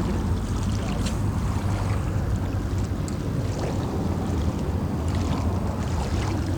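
Steady rushing of water with wind buffeting the microphone.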